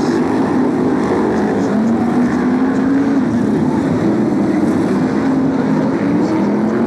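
BriSCA F1 stock cars racing, their V8 engines running hard in a loud, continuous drone whose pitch drifts up and down as the cars lap the track.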